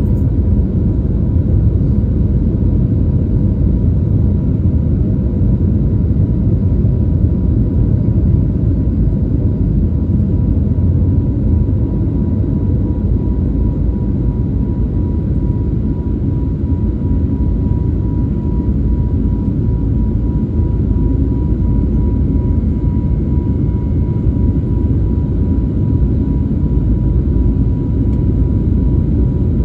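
Airliner engines running steadily at takeoff: a loud, even low rumble with a thin steady whine above it.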